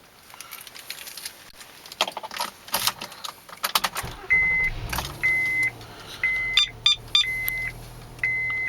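Keys jangling and clicking in the 2009 Honda Accord V6's ignition. A dashboard chime then beeps about once a second, and the 3.5-litre V6 starts about halfway through and settles into a steady idle.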